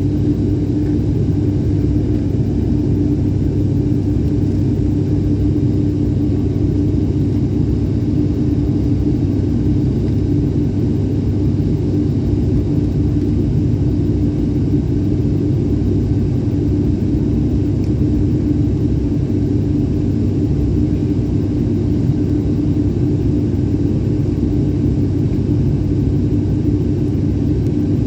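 Airliner cabin noise during the landing approach: a steady low drone of engines and airflow, with one constant hum running through it.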